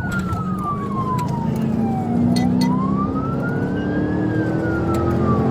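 Police siren in a slow wail, its pitch sweeping down and back up about once every four seconds, over the engine and road noise of the pursuing patrol car at high speed. The engine note climbs slowly.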